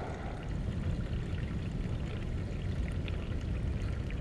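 Water sloshing and trickling close to the microphone: a steady low sloshing with small scattered drips.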